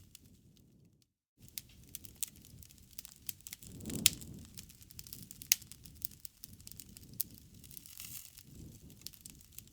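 Wood fire crackling, with irregular sharp pops and snaps over a low rush of flame and a louder flurry of pops about four seconds in. The sound drops out for a moment about a second in.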